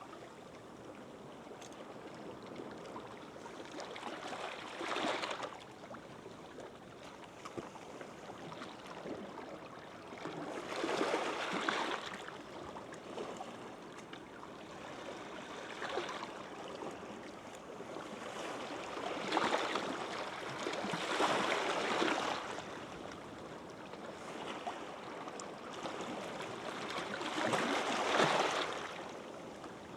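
Calm sea waves washing up a sandy beach: a soft, continuous rush of surf that swells and fades again about every five to six seconds as each wave breaks and runs up the shore.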